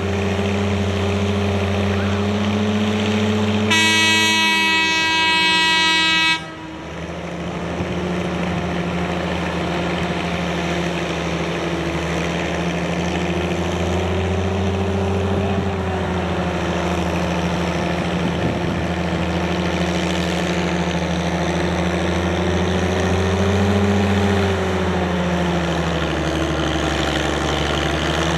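Antique farm tractor engine running steadily, its pitch rising and falling slightly. A horn blows for about three seconds a few seconds in; as it stops, the engine sound drops sharply and then comes back up.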